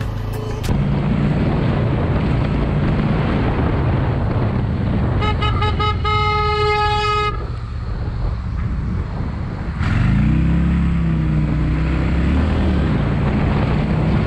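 Road traffic with a vehicle horn honking about five seconds in, a few short beeps and then a longer blast lasting about a second, over steady engine and road noise. Later an engine revs up, holds its pitch for a couple of seconds and eases off.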